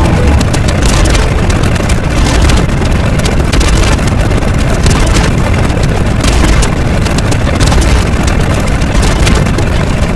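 Loud, steady rumbling noise heavy in the bass, with no clear rhythm or pitch.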